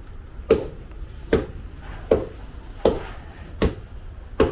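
Fufu being pounded by hand in a mortar, cassava, plantain and yam struck with a wooden pestle. The dull thuds come at a steady pace, about four every three seconds, six in all.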